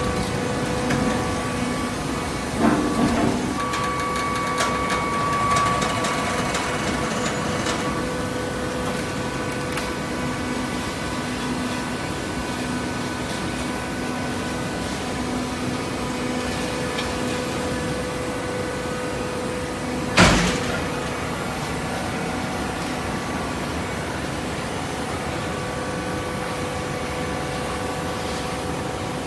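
Horizontal hydraulic cardboard baler running: a steady machine hum with several held tones, broken by a short knock a few seconds in and one sharp, loud clank about twenty seconds in.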